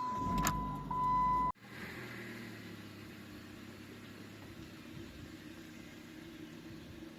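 A car's steady electronic warning beep over low engine rumble, which cuts off abruptly about a second and a half in. It is followed by the steady low drone of the car running, heard from inside the cabin.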